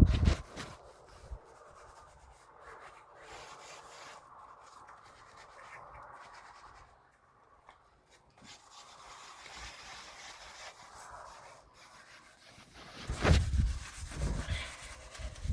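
Faint, uneven rubbing and scraping, then a cluster of loud knocks and bumps near the end.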